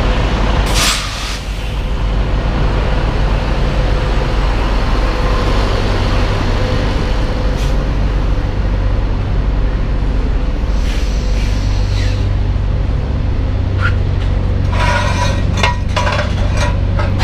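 Semi tractor-trailer's diesel engine idling steadily, with a short burst of air hiss about a second in, as when the air parking brakes are set after backing into the dock. A few clicks and knocks come near the end.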